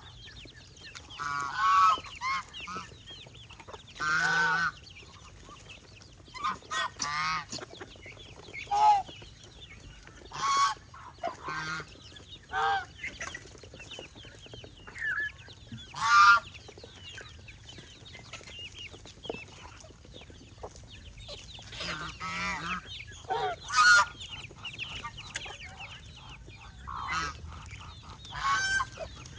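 Domestic geese honking: many short calls at irregular intervals, some overlapping, with a few louder honks standing out.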